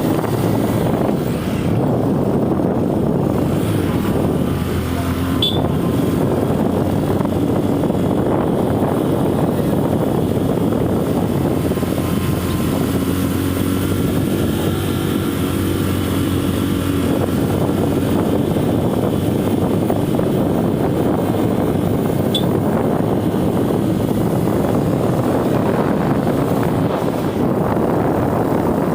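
Hero Passion Pro i3s motorcycle's single-cylinder engine running steadily while riding, with road and wind noise. Two brief high chirps sound, one early and one about two-thirds of the way through.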